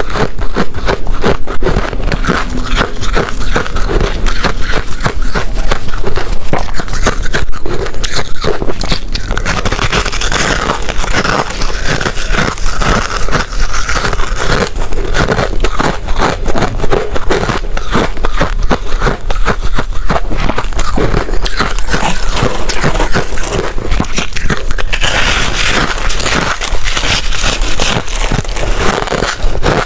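Ice being bitten and chewed close to the microphone: dense, continuous crunching and cracking with many sharp clicks.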